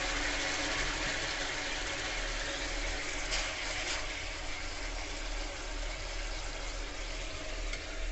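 Tomato-and-chilli-sauce gravy sizzling and bubbling steadily in an aluminium kadai over a gas flame.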